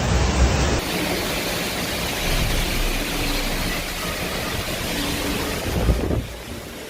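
Steady rushing noise of storm wind battering the microphone, its character changing abruptly about a second in and again near the end.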